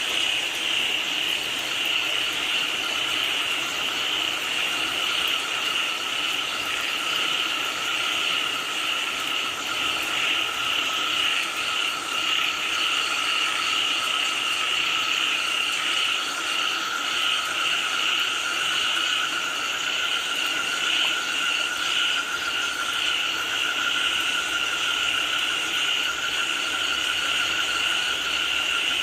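A dense, steady chorus of many frogs calling together, with an even hiss of rain beneath it.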